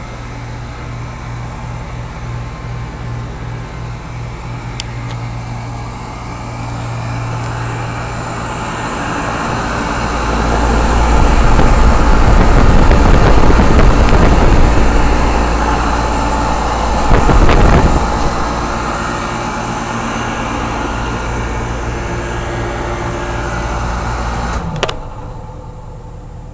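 York commercial air-conditioning condensing units running: a steady hum of compressors under the whoosh of the condenser fans. It swells to its loudest with a deep rumble about halfway through, then drops off suddenly near the end.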